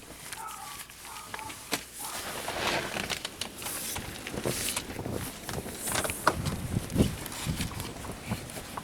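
Stepping out into a blizzard: wind buffets the microphone, with irregular knocks, footsteps and clothing rustle. It gets louder from about two seconds in.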